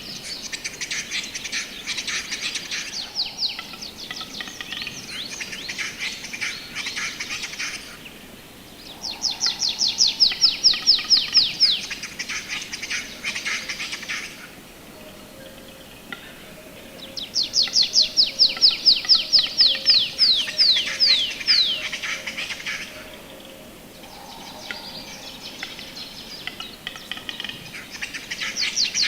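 A small songbird singing in phrases several seconds long, each a fast run of high, falling notes and trills, repeated after short pauses.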